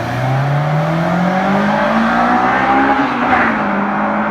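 Car engine accelerating, its pitch rising steadily for about three seconds and then holding level.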